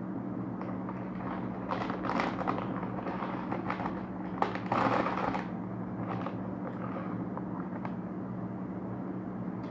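Crisp crackling and crunching of Oishi 4X layered corn snacks being bitten and chewed, in clusters through the first half and loudest a little before the middle, over a steady low electrical hum.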